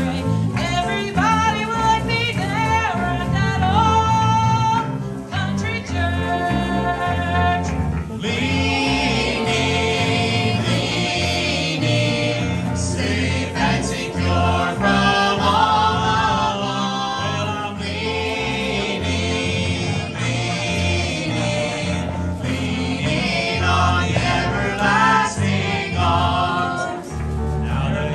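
Gospel music: several voices singing together over instrumental accompaniment.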